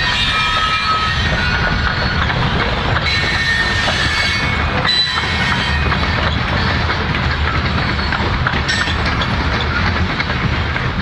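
Loaded covered hopper cars of a grain train rolling past, a steady rumble of steel wheels on the rails with clickety-clack. Thin, high-pitched wheel squeals come and go in the first half.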